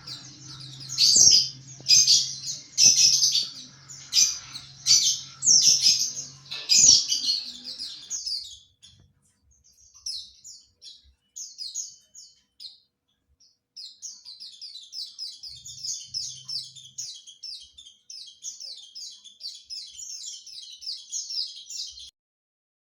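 White-eye (pleci) singing: loud high chirps repeated every second or so at first, then sparser calls, then about halfway a fast, continuous high twittering, the 'ngriwik' song, which stops suddenly shortly before the end.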